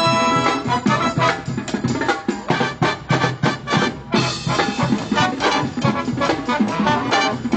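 Live college band playing an upbeat tune: brass in short, punchy rhythmic figures over a drum kit.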